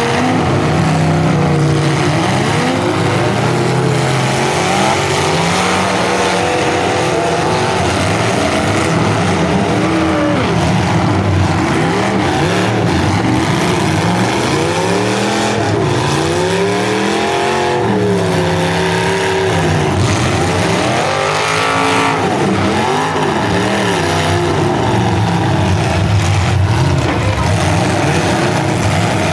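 Several full-size demolition derby cars' engines revving up and falling back again and again, overlapping one another as they drive.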